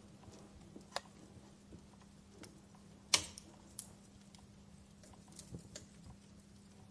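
Wood fire crackling in a fireplace: scattered sharp pops and snaps over a faint steady hiss, the loudest pop a little after three seconds in.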